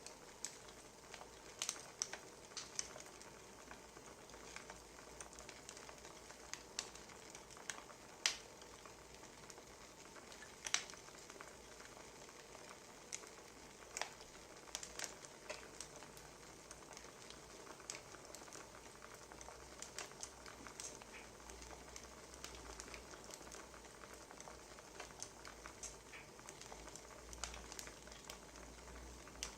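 Wood fire crackling: irregular sharp pops and snaps, a few a second, over a soft steady hiss.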